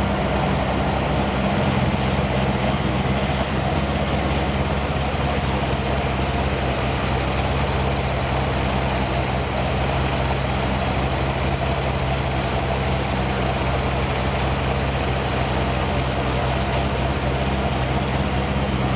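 Car engine idling steadily: an even, unchanging low running note with no revving.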